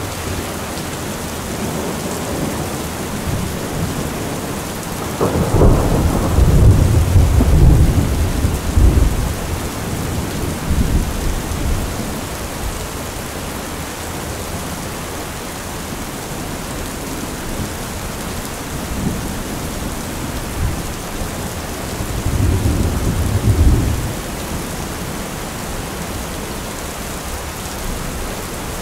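Steady rain with thunder: a long rolling rumble starts about five seconds in and lasts several seconds, and a second, shorter rumble comes about twenty-two seconds in.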